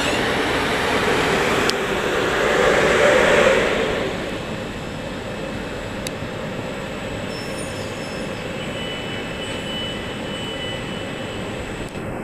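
Electric train moving through the station, its rumble swelling to a peak about three seconds in and then dropping to a steady, quieter hum.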